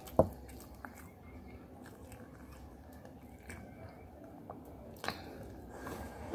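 Chewing a mouthful of curry and fried rice: wet mouth smacks and small clicks, with a sharp smack just after the start and another about five seconds in.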